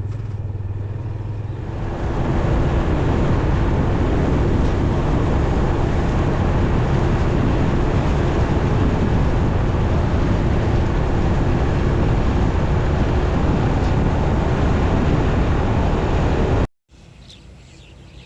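Riding on a motorcycle: a steady rush of wind and road noise with the engine running underneath, louder from about two seconds in. It cuts off abruptly near the end to much quieter outdoor sound.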